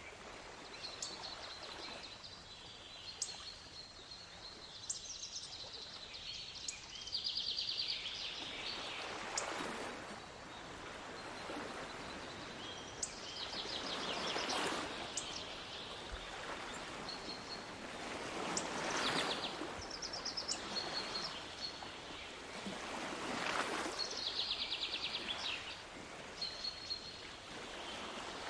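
Waves washing in, swelling and fading about every four to five seconds, while small birds keep up high chirps and quick trills.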